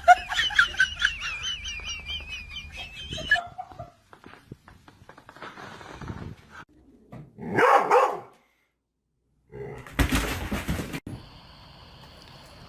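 Dog vocalising: a high, wavering whine for about the first three seconds, then a single loud bark-like call a few seconds later.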